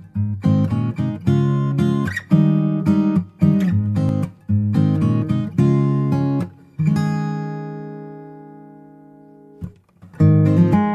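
Background music on acoustic guitar: rhythmic strummed chords, then one chord left to ring and fade from about seven seconds in, with the strumming starting again near the end.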